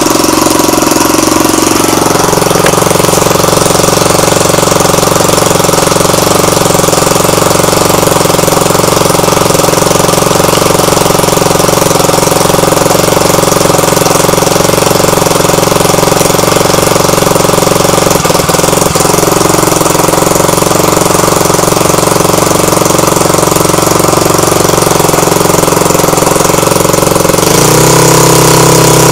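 Airpower A38 two-stroke gasoline model-aircraft engine running loud and steady, driving its propeller on its first test run. The pitch shifts about two seconds in and steps up near the end as the engine speeds up.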